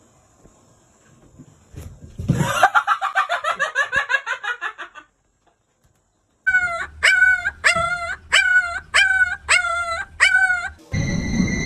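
A small dog giving high-pitched yips: a fast run of short yelps a couple of seconds in, then, after a pause, about eight evenly spaced yips, roughly two a second.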